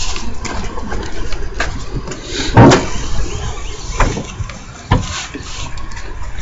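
A car hood being opened: a few sharp knocks, the loudest about a third of the way in, with some squeaking from the latch and hinges.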